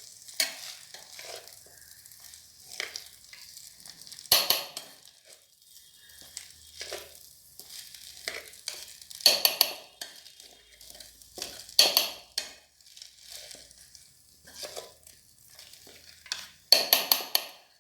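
A spoon stirring and scraping Maggi noodles frying in oil inside an electric kettle, with a faint sizzle under the irregular scrapes; the loudest scrapes come about four, nine and twelve seconds in, with a quick run of them near the end.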